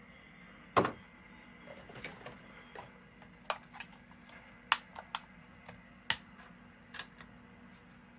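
About a dozen sharp, irregular clicks and taps of small hard objects being handled at a workbench, the loudest just under a second in and twice more about halfway through, over a faint steady hum.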